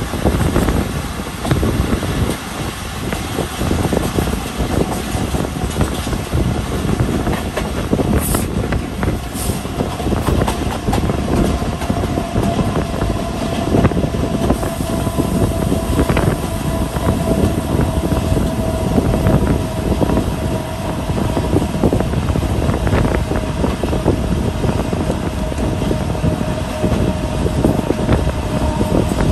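Passenger train running along the track, heard from aboard: steady rumble with a dense clatter of wheels over the rails. About ten seconds in a steady whine joins and slowly drops a little in pitch.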